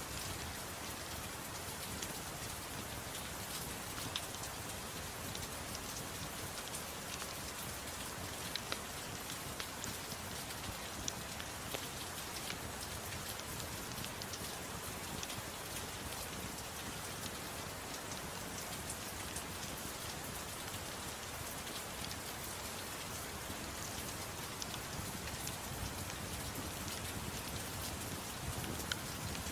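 Steady soft rain falling on a surface, mixed with a crackling fireplace that gives scattered small pops and clicks.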